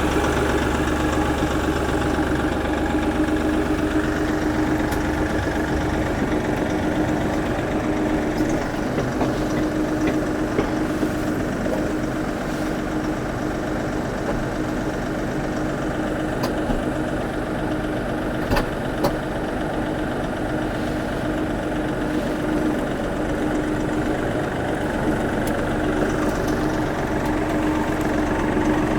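Tractor engine running steadily, with a few sharp clicks partway through.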